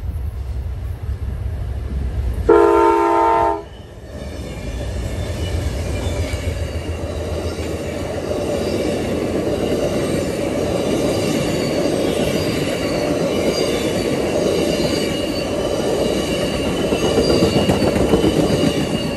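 Amtrak diesel passenger train approaching and passing close by: a deep engine rumble, one horn blast of about a second a couple of seconds in, then the steady clatter and rumble of the passenger cars' wheels on the rails, growing louder toward the end as the last cars go by.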